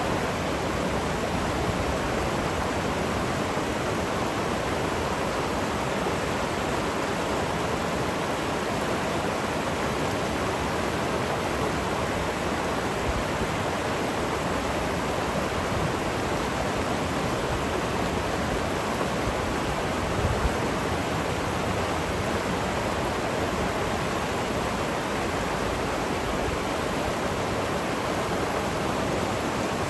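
Steady flowing river water, an even hiss of moving current. A brief low thud about two-thirds of the way through.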